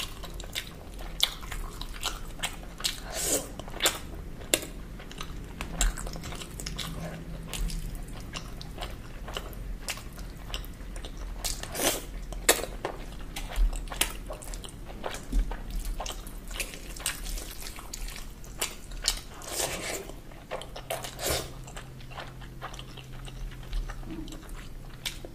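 Close-miked mukbang eating sounds: wet chewing and lip smacks of a mouthful of rice and chicken curry, with squelches of fingers mixing rice and gravy, coming as irregular sharp clicks. A faint steady low hum lies underneath.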